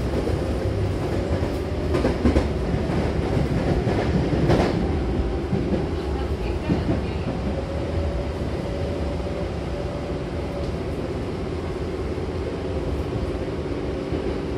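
Hankyu electric commuter train running between stations, heard from inside the car: a steady rumble and hum with a few sharp clicks from the wheels in the first few seconds.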